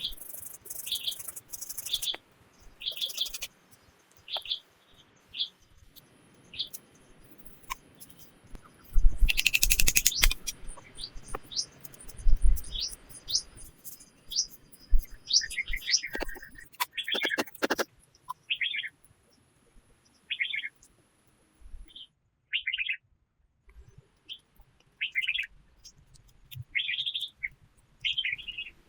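Wild forest birds chirping in short repeated calls, with a thin high steady whistle for several seconds in the first half. A brief loud noise about nine seconds in.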